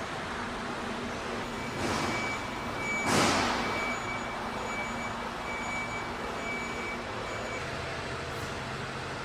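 Compressed air hissing out twice, a short burst and then a louder one that fades over about a second, over a steady factory hum. An intermittent high-pitched beeping sounds for several seconds alongside, in the manner of a reversing or warning beeper.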